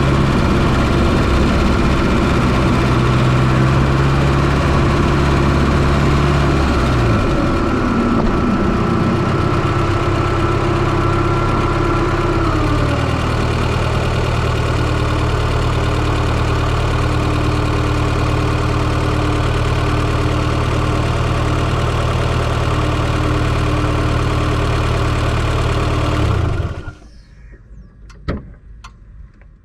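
Fiat Coupé 2.0 16V turbo engine idling, heard from inside the engine bay. About a quarter of the way in, the engine speed drops and settles to a lower, steady idle. Near the end the engine is switched off and stops suddenly, followed by a couple of faint clicks.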